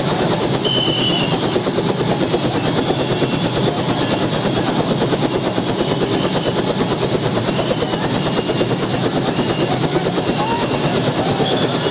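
Helicopter running steadily, its rotor and engine noise continuous and unbroken, with a fast flutter.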